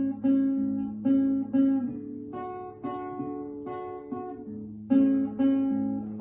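Acoustic guitar playing a picked instrumental intro, plucked notes coming about every half second over ringing bass notes.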